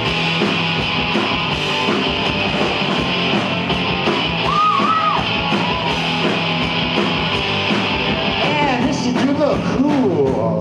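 Live punk-rock band playing an instrumental stretch at full volume: steady driving drums under distorted electric guitars and bass, with a few wavering high notes about halfway through and again near the end.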